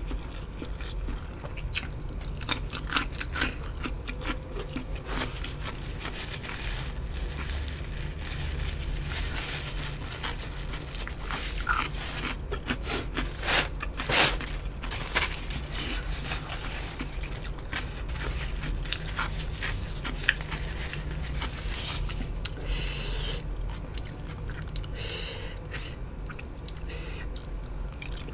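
A person chewing and biting crunchy food close to the microphone, with irregular sharp crunches and mouth sounds throughout.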